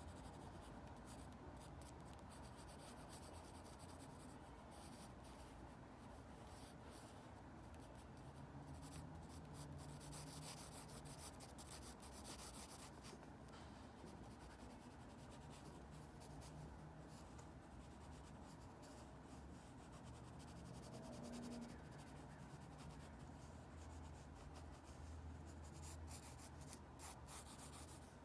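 Faint scratching of a drawing tool on paper in short, irregular strokes, coming in quick runs now and then, over a low steady hum.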